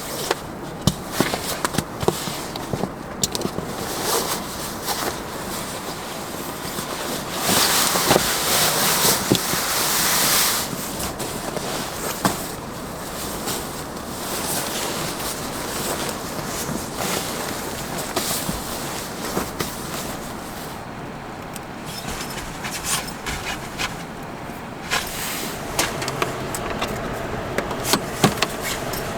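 Clicks, knocks and rustling of things being handled, with a louder rustling hiss lasting about three seconds starting around eight seconds in.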